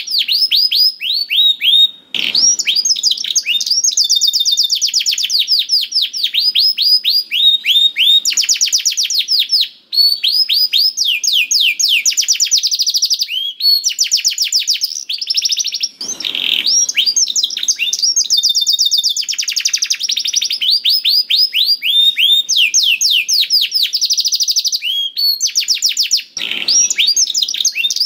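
Canary singing continuously in long, rapid trills of quick downward-sweeping whistled notes, with only a few brief pauses between phrases.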